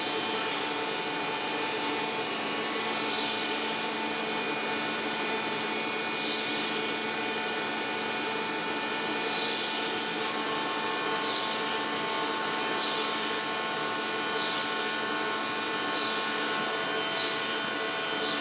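Shock absorber test machine running: a steady mechanical whir with several constant tones, its level unchanging throughout.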